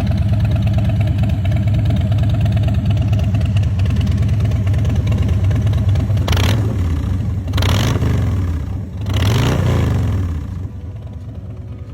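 Harley-Davidson Fat Bob's Milwaukee-Eight 107 V-twin idling steadily, then blipped three times in quick succession, each rev rising and falling back, before dropping to a quieter sound near the end.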